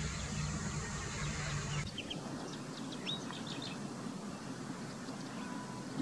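Steady noisy hum with a low drone that cuts off abruptly about two seconds in. Scattered short, high bird chirps follow, with one longer upward-then-downward call about a second later.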